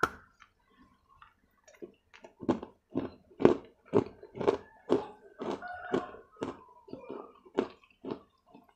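Close-miked crunchy chewing: a person bites and chews something hard, with short sharp crunches about twice a second. A single click comes right at the start.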